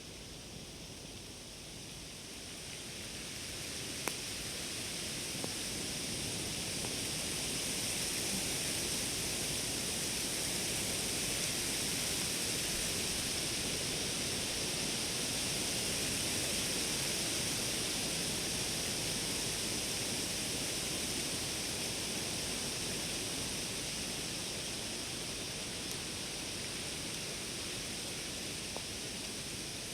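Campfire ambience late in the fire's life, burned down toward embers: a steady rushing hiss that swells over several seconds and slowly eases again, with two faint pops a few seconds in.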